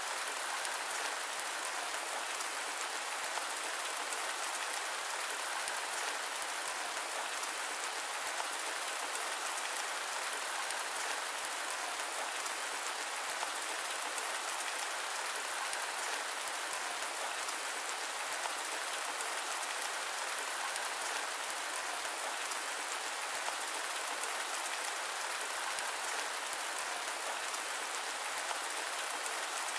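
Steady rain: an even, unbroken hiss of falling drops with no thunder and no low rumble.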